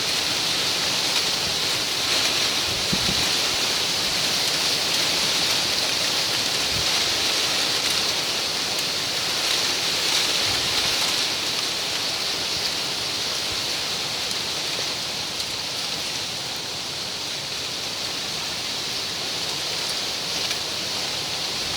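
Wind blowing through palmyra palm fronds: a steady, hissing rustle of the stiff leaves that eases slightly after the middle.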